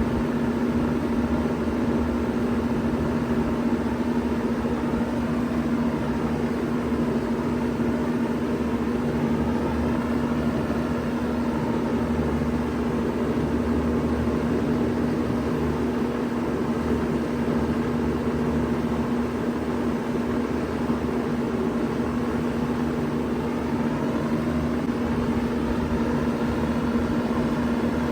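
1993 Bard 2.5-ton wall-hung heat pump running in cooling mode: a steady compressor hum under the even rush of its fan.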